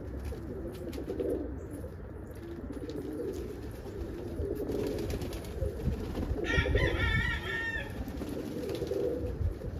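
Domestic pigeons cooing over and over in low, throaty phrases. About two-thirds of the way through, a brief higher warbling call rises over the cooing.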